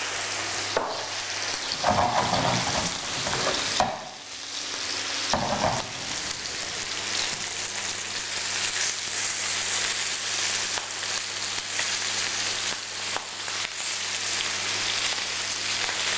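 Floured chicken thighs and vegetables with white wine sizzling steadily in olive oil in two pans on an electric hob, the chicken browning. Brief handling noises come about two and five seconds in.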